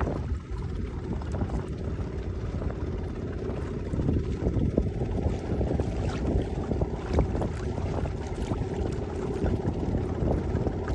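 Wind buffeting the microphone aboard a sailing barge: a steady low rumble with scattered light clicks and knocks.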